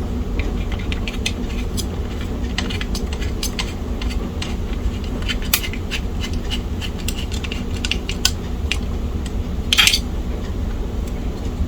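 Light clicks and taps of small plastic and metal laptop parts being handled and fitted together, with a brief louder scrape about ten seconds in, over a steady low hum.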